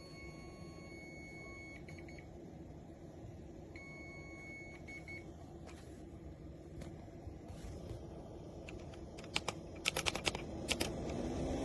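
Steady low machine hum, with a high electronic tone sounding twice for a second or two, then a quick run of sharp clicks near the end as a rushing noise begins to rise.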